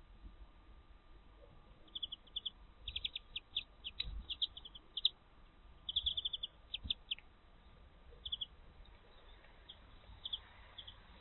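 Small songbirds calling with short, high chirps in quick bursts of several at a time, busiest in the first half and thinning out to a few scattered chirps toward the end.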